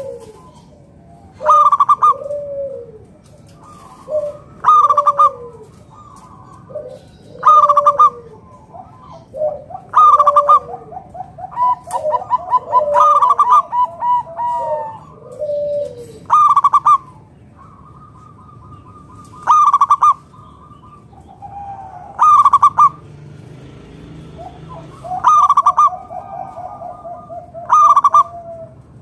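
Zebra dove (perkutut) cooing: loud, bright call phrases repeat about every two to three seconds, with softer falling coos and rolling runs of quick notes in between.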